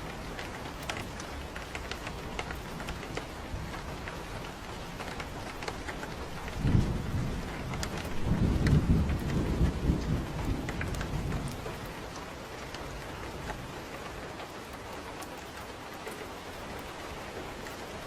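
Steady rain falling, with scattered drops ticking on surfaces. About seven seconds in, a low roll of thunder breaks in sharply and rumbles for several seconds before fading back under the rain.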